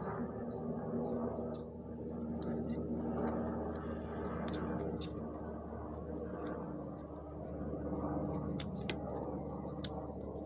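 Close-up eating sounds: chewing and wet squishing of squid and rice eaten by hand, with small scattered mouth clicks, over a steady low hum.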